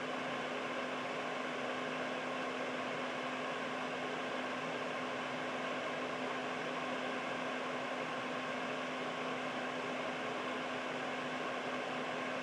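Household air purifier running steadily: an even fan whoosh with a steady low hum from its motor.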